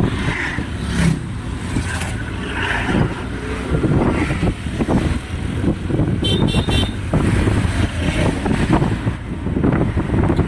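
Road traffic noise, a steady low rumble with wind buffeting the microphone, and a brief series of quick vehicle horn beeps a little past halfway.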